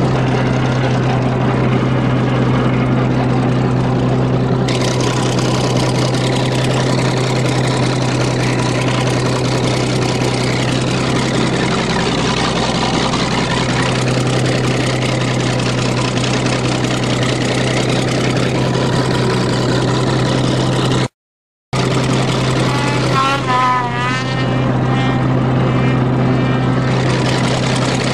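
Bulldozer engine running steadily with a deep, even hum. The sound cuts out for a moment about three quarters of the way through, then the engine carries on.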